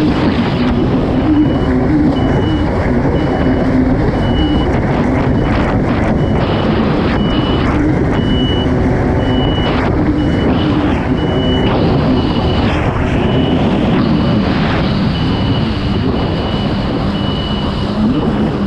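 Kawasaki STX 160 jet ski's four-stroke engine running hard at racing speed, its note wavering up and down, with wind and water rushing over the onboard microphone. A short high-pitched beep repeats about once a second.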